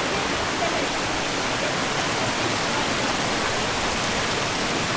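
Glade Creek's rushing water: a steady, unbroken roar of a fast mountain creek near a waterfall.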